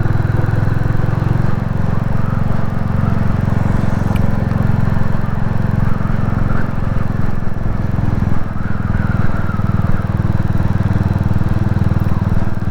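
Royal Enfield Classic 350's single-cylinder engine running steadily while being ridden.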